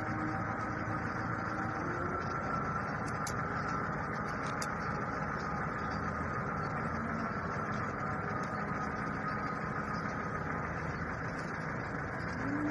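Steady drone of an idling engine, with a few faint light clicks about three and a half and four and a half seconds in.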